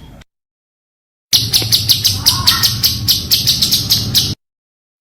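Songbird giving a fast run of about twenty short, sharp, high notes, six or seven a second, lasting about three seconds. The run is set between dead-silent gaps where one recording cuts to the next.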